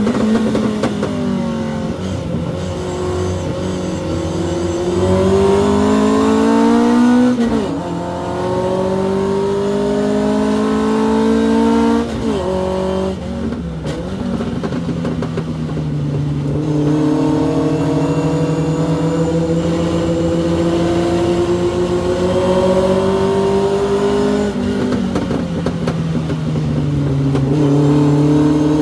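Hillman Avenger race car's four-cylinder engine heard from inside the car at racing speed. The revs climb steadily, then drop sharply several times as gears change.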